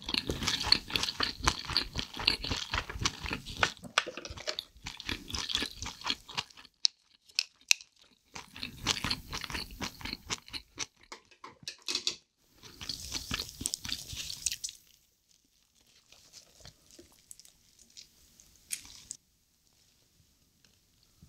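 Close-miked chewing of soy-sauce-marinated seafood, wet and crunchy, in bursts with short pauses. After about fifteen seconds it drops to faint scattered wet handling sounds.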